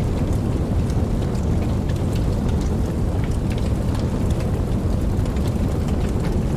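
Steady rain falling, with many sharp drop ticks, over a continuous deep rumble of distant thunder.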